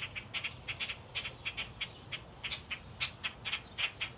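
Parent blackbirds giving short, sharp alarm calls in quick, uneven succession, several a second, scolding a person close to their fledglings.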